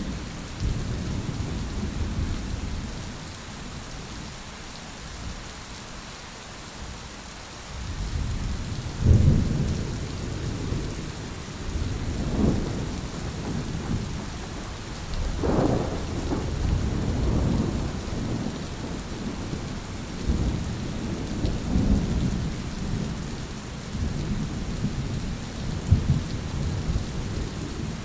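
Thunderstorm: steady rain hiss under rolling thunder, with a quieter lull before the rumbles build again about eight seconds in and break into several sharper claps, the strongest about halfway through.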